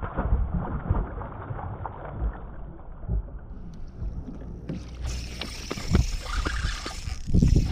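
Irregular low knocks and thumps of handling on a fishing kayak, with a light noise haze. The sound turns brighter about five seconds in.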